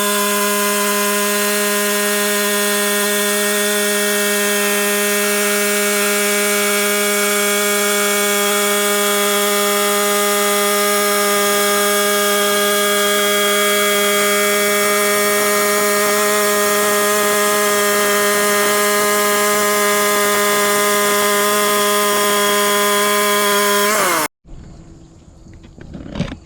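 Engine of a MechMaxx 32 bandsaw sawmill running loud and steady at full throttle while the band blade cuts through a log. Near the end the pitch sags slightly, then the sound cuts off suddenly.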